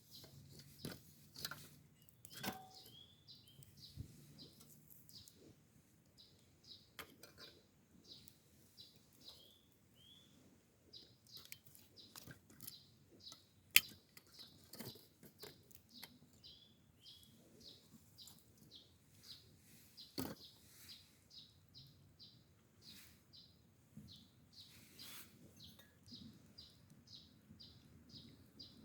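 Bird chirping, short high notes repeated steadily about three times a second, over a faint outdoor background with scattered clicks and snaps; one sharp snap about 14 seconds in is the loudest sound.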